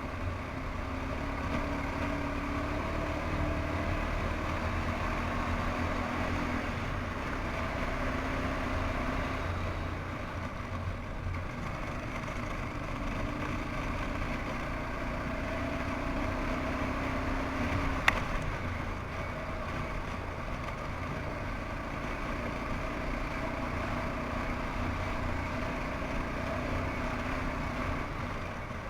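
1992 Suzuki QuadRunner 300's single-cylinder four-stroke engine running under way as the ATV is ridden through slush, its pitch rising and falling a little with the throttle. There is one sharp click about two-thirds of the way through.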